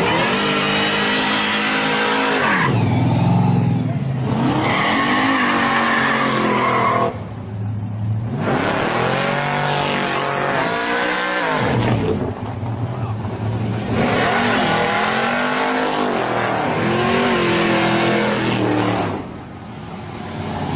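Hot rod and muscle car engines revving hard as the cars pull away and drive past, in several separate surges of rising and falling pitch with brief lulls between them.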